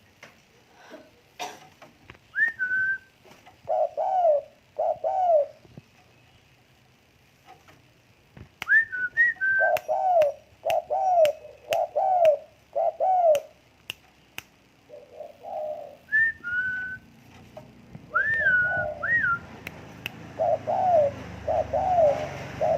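Tame derkuku (spotted dove) cooing: repeated low, arched coo notes in short phrases of two to four, with gaps between phrases. A few higher whistled notes and several sharp clicks, clustered about a third of the way in, are mixed in.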